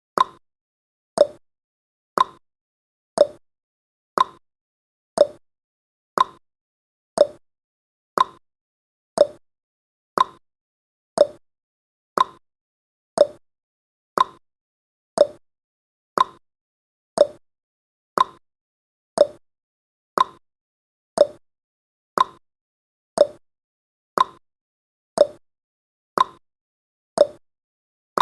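Countdown timer's tick sound effect: a short, sharp click repeating evenly once every second.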